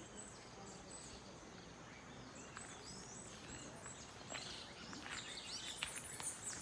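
Birds chirping and calling here and there, faint short high notes over a soft steady outdoor hiss, with more calls in the second half.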